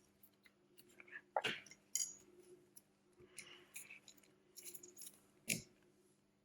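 Small hand tools clicking and scraping on a smartphone's parts during a repair, with three sharper clicks, the loudest about five and a half seconds in, over a faint steady hum.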